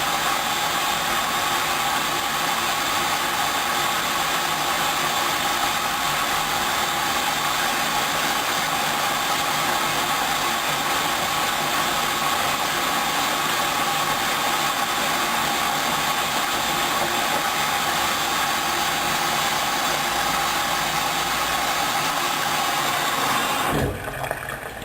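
Hoover Dynamic washing machine running in its first rinse stage: a steady mechanical whirring that cuts off near the end.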